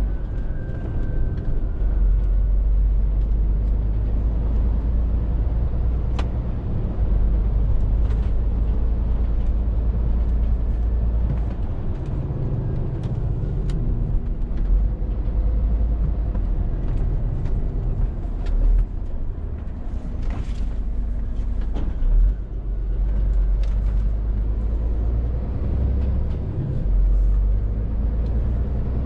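Scania R450's 13-litre six-cylinder diesel engine and road noise heard from inside the cab: a steady low rumble that swells and eases with load every few seconds, with scattered light clicks and rattles.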